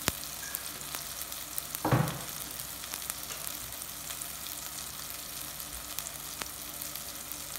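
Onions and tomatoes sizzling in hot coconut oil in a clay pot: a steady crackling hiss with fine pops. There is one short louder knock about two seconds in.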